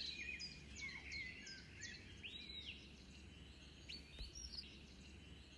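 Small birds chirping, a string of short high calls and twitters with one longer arched note about two seconds in, over a faint steady low hum.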